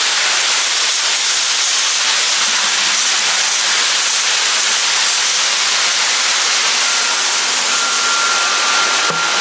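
Industrial bucket washing machine's high-pressure spray nozzles hissing steadily as water jets wash plastic buckets. A faint thin tone joins about seven seconds in.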